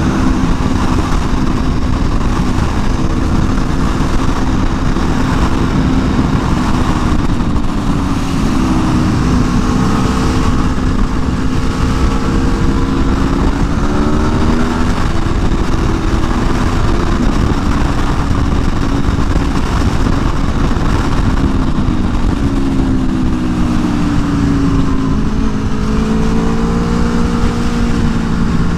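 Onboard sound of a 2022 Aprilia Tuono V4 1100 Factory's V4 engine on stock exhaust, ridden on track. The engine note holds steady, then rises and falls as the rider works the throttle and gears, about halfway through and again near the end, over a constant rush of wind noise.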